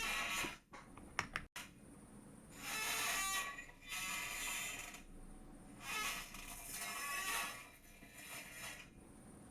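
Chair creaking: a series of drawn-out creaks, each about a second long with short gaps between, and a few sharp clicks about a second in.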